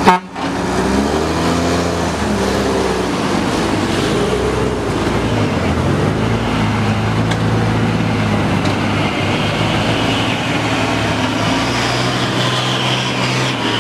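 Truck engine running under load, its pitch rising and falling over the first few seconds, then holding steadier. A single sharp, loud knock right at the start.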